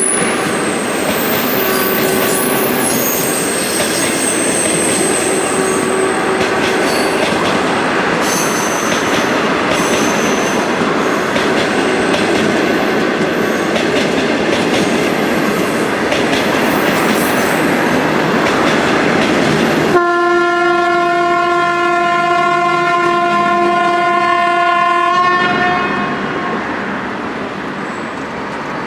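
Train running past with wheels clattering on the rails and short high-pitched wheel squeals. About twenty seconds in, the locomotive horn sounds one long steady blast of about five seconds.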